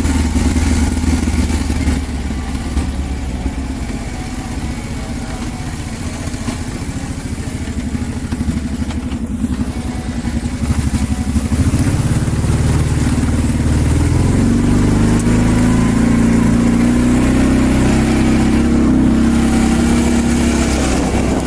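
A vehicle engine running steadily, its pitch and level rising between about twelve and fifteen seconds in, then holding at the higher speed.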